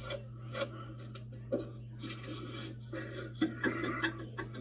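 Faint scattered clicks and rustles over a steady low hum.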